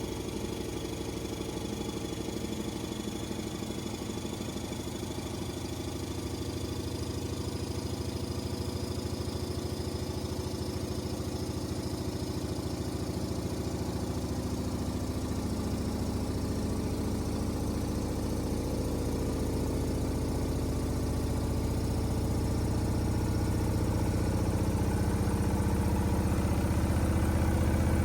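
LG front-loading washing machine's drum spinning, a steady motor hum with low tones that grows gradually louder as the spin builds.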